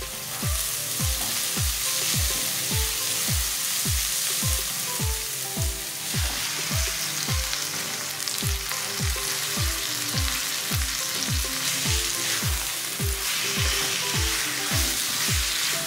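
Diced onion and raw chicken pieces sizzling in oil in a nonstick pan as they are stirred with a silicone spatula. Background music runs underneath with a steady beat of about two drum hits a second.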